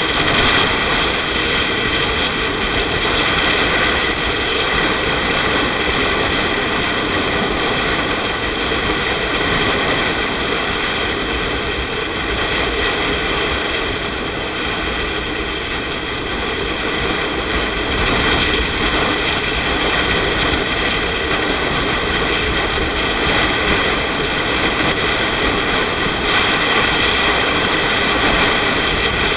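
Steady rush of wind on the microphone with a motorcycle engine running underneath, as heard while riding at a steady speed. It eases slightly about halfway through, then picks up again.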